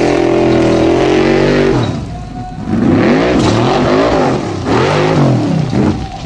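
Rally car engine at high revs, held steady for about two seconds, then dropping off, followed by several quick rises and falls in revs about a second apart.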